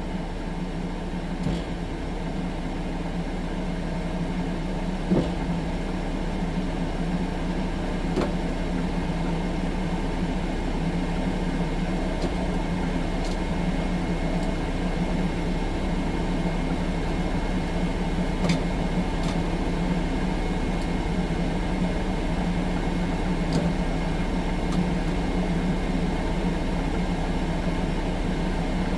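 6-ton skid steer track loader's engine running steadily, heard from inside the cab, with a few light knocks and clunks now and then.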